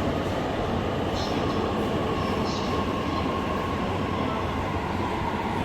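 Train noise in a railway station: a steady loud rumble with a faint whine running through it and a few brief high squeals.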